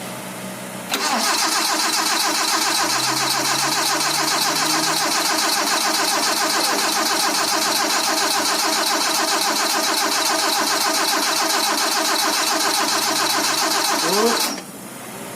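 Starter motor cranking the freshly rebuilt Proton 4G13 SOHC engine, now fitted with 4G15 pistons and a racing cam, in one long even run of about thirteen seconds that stops abruptly. The engine is not caught running, and further start attempts follow.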